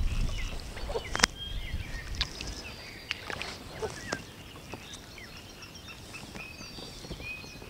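Small birds chirping and twittering in many short calls, with a few sharp knocks, the loudest about a second in.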